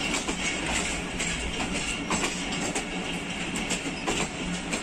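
Passenger train coach rolling along the track, heard from its window: a steady running rumble of wheels on rails with irregular clicks and knocks.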